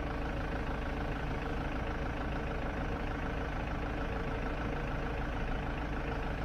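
Nissan Navara pickup's diesel engine running steadily at an even speed.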